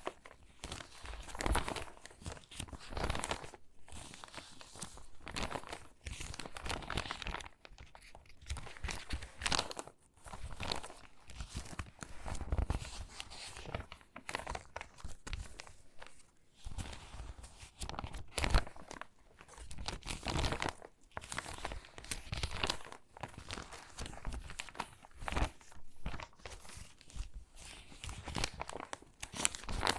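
Water-damaged magazine pages being handled and sorted by hand, crinkling and rustling in irregular bursts about once a second.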